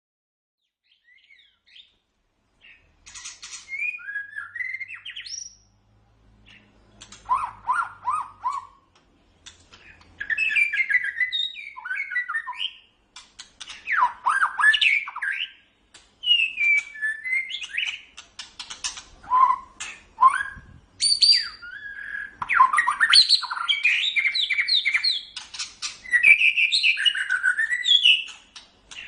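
White-rumped shama (murai batu) singing: a varied run of whistled phrases, pitch glides and fast rattling note strings, in bursts of one to three seconds with short pauses between, the song running nearly unbroken in the last third.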